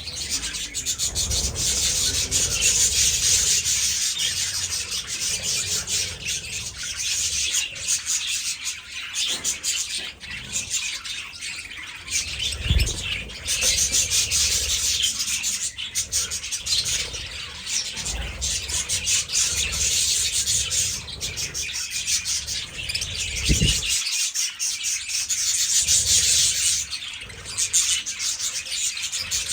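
A flock of budgerigars chattering and chirping all at once, a dense continuous chatter, with a couple of low thuds under it.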